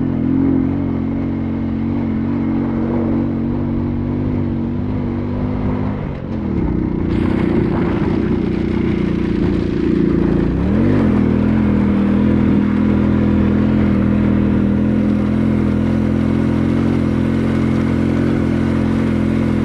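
A vehicle's engine running steadily on the move. About six seconds in the engine note dips, and about eleven seconds in it briefly glides in pitch, as with a change of speed or gear, before it settles into a steady run again.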